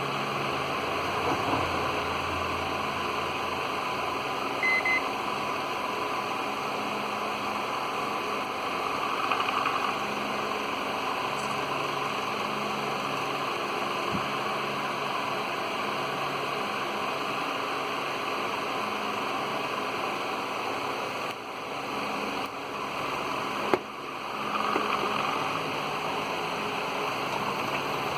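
Steady hiss with a faint low hum, broken about five seconds in by a short double beep from a microwave oven control board's buzzer, and by a single sharp click near the end.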